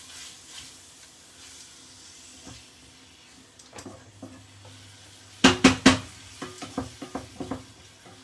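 Chicken breast frying with a faint sizzle in a pan. A little past halfway, a utensil clatters loudly against the pan three times in quick succession, followed by a string of lighter taps and scrapes.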